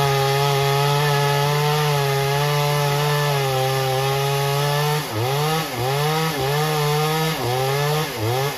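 Chainsaw engine running at full throttle, cutting wood. From about five seconds in, the engine speed drops and picks up again several times in quick succession before falling away at the end.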